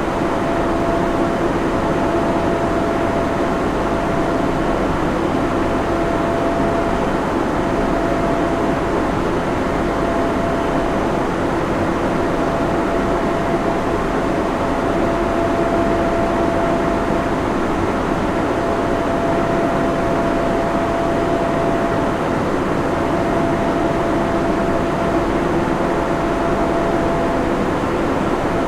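Server room ambience: cooling fans and equipment running in a steady, even roar with a few constant hum tones over it.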